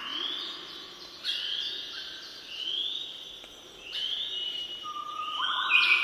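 Songbird singing a series of short, rising whistled notes, about five in the span, each a second or so apart, with lower notes underneath. The loudest comes near the end.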